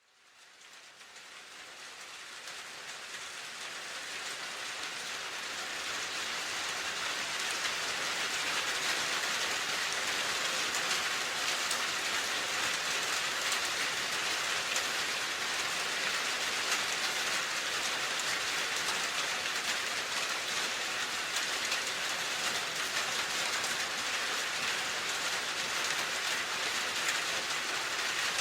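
Steady rain falling, an even crackling patter that fades in over the first several seconds and then holds level.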